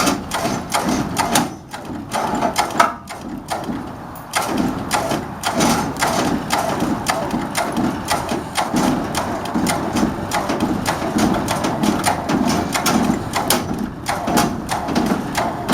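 Trailer winch working under load, with a steady rhythm of clicks and knocks, about two a second.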